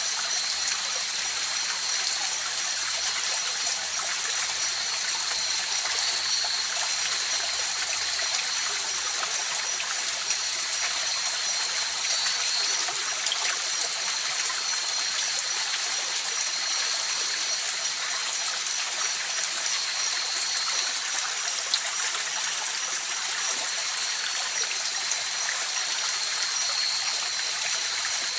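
River water flowing and trickling steadily, with two faint steady high-pitched tones running over the rush of the water.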